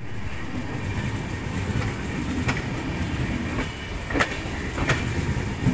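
Moving train's steady rumble, with several sharp clicks as the wheels pass over rail joints and points.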